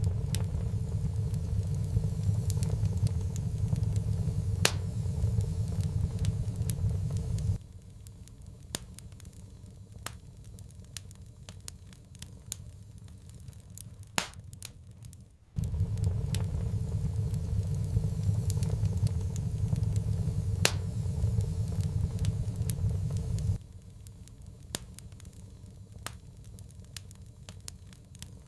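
Wood fire in a fireplace crackling with irregular sharp pops. A loud low rumble sits under the crackling for the first seven or so seconds, cuts off abruptly, comes back about halfway through and cuts off again with a few seconds left.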